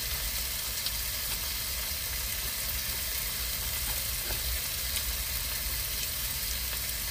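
Oil sizzling steadily in a frying pan as a Korean pancake (buchimgae) fries, with a low rumble underneath.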